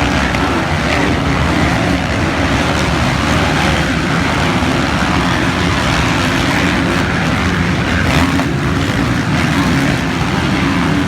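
Motocross bike engines running, a loud, steady din that holds without let-up.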